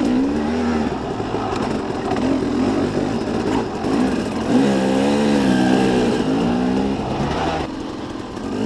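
Two-stroke dirt bike engine revving and pulling on the throttle up a trail climb, its pitch rising and falling, loudest and highest a little past the middle.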